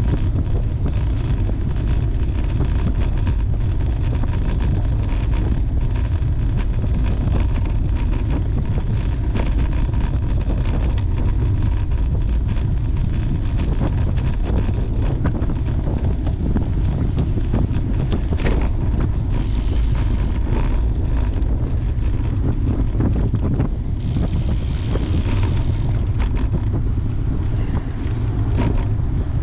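Steady wind buffeting the microphone of a camera on a moving road bicycle, a heavy low rumble throughout, with a brief higher hiss twice in the second half.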